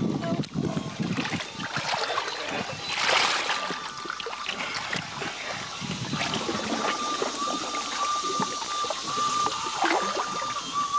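Duct tape being pulled off the roll and pressed down over holes in a jet ski's hull, with a loud tearing rasp about three seconds in and scattered handling knocks and rustles. A thin steady high tone sounds in the background.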